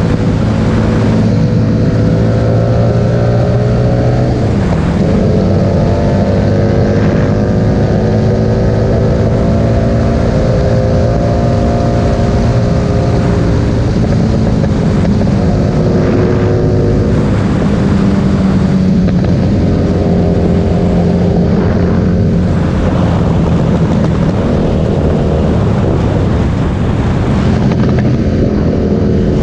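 Harley-Davidson Street Rod 750's liquid-cooled V-twin running loud through an aftermarket Vance & Hines exhaust, the engine pitch rising and falling several times as it is revved and eased off.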